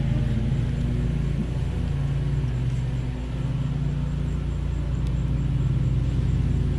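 Steady hum of many honeybees flying around an opened hive, several low tones drifting slightly in pitch.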